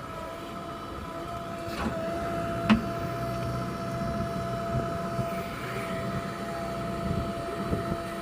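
A heavy vehicle running steadily with a constant whine and low rumble, and one sharp knock a little under three seconds in.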